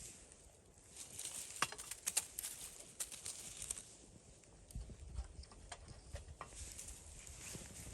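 Irregular light clicks and knocks, most of them in the first half, followed by a few soft low thumps about five seconds in.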